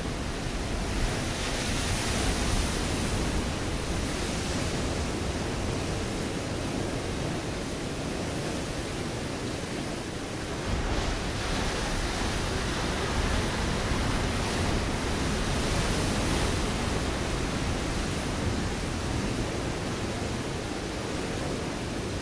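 Ocean waves breaking on a rocky shore: a continuous wash of surf that swells louder twice, about two seconds in and again around the middle, between the breakers.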